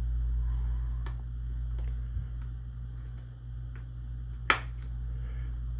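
A few faint clicks of parts and tools being handled at a workbench over a steady low hum, with one sharp click about three-quarters of the way through.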